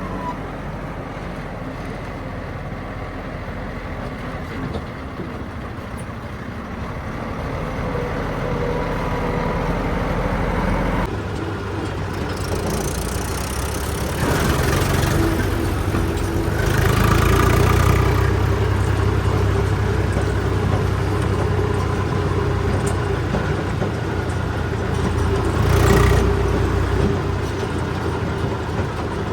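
Heavy diesel machinery engines running: a steady idle, then an abrupt change in sound about a third of the way in, after which they run louder and rev up around the middle, with a brief peak near the end.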